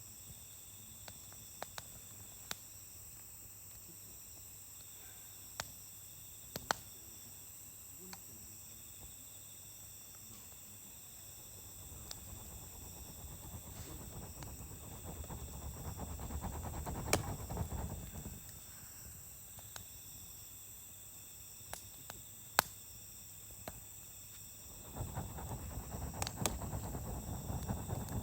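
Campfire crackling, with sharp pops every few seconds, over steady insect trilling. Around the middle and again near the end, the sound swells into a rushing noise.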